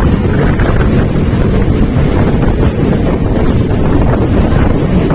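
Loud wind buffeting the microphone over the steady rumble of a moving passenger train.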